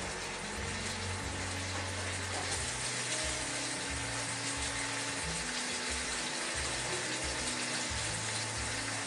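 Pork steaks sizzling in a hot wok: a steady crackling hiss that holds level throughout. Low, held notes of background music run underneath.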